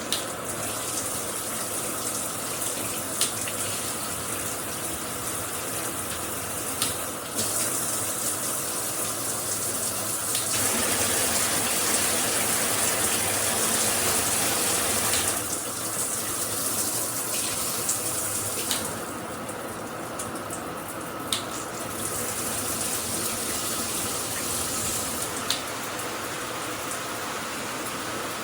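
Shower head spraying water, a steady rush whose sound shifts several times, louder and fuller for a few seconds in the middle. A few sharp clicks sound over it.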